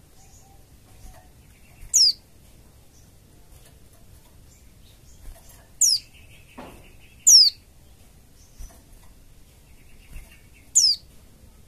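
White-eye (pleci) calls: four sharp, high whistles, each sweeping quickly downward, spaced a few seconds apart, some led in by a soft buzzy chatter. It is a lure recording used to get other white-eyes to open their beaks and sing.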